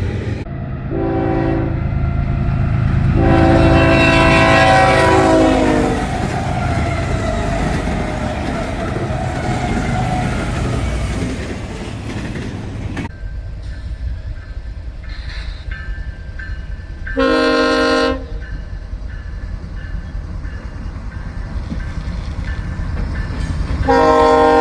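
Train passing with a steady low rumble while its horn sounds a multi-note chord: a short blast and then a long one early on, another short blast later, and a long blast starting near the end.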